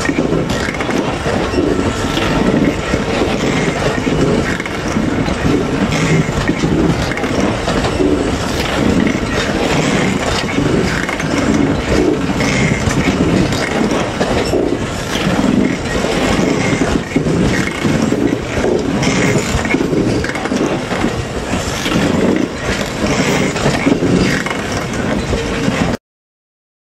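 A freight train of open box wagons rolling past close by: a steady rumble of steel wheels on the rails, with clattering, knocking and scraping from the wagons and bogies over the track. It cuts off suddenly about a second before the end.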